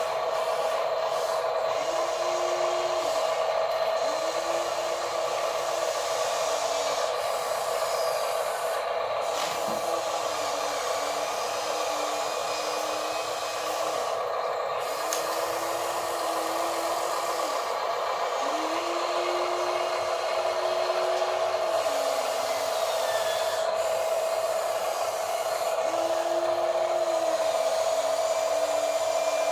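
Small electric motors of radio-controlled construction models running: one steady whine throughout, with a second, lower motor note starting and stopping about seven times in spurts of one to two seconds.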